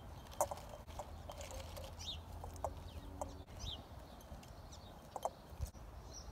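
Faint, scattered short bird calls, some falling quickly in pitch, over a low steady background hum, with a few light clicks.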